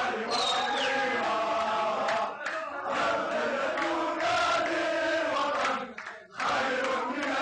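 A group of men chanting and singing together in celebration, many voices at once. A high whistle-like tone slides down under a second in, and the voices break off briefly about six seconds in.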